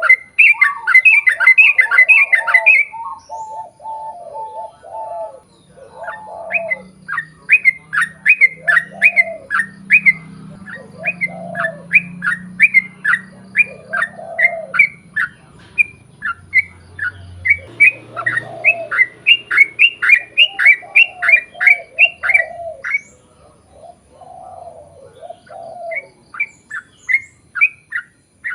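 Yellow-vented bulbul (trucukan) song: long runs of quick, sharp repeated notes, with lower bubbling phrases about every two seconds. The runs break off briefly a few seconds in and again near the end before starting up again.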